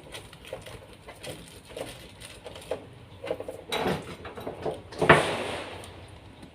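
Two sharp clattering knocks about four and five seconds in, the second the loudest, over faint, repeated dove cooing.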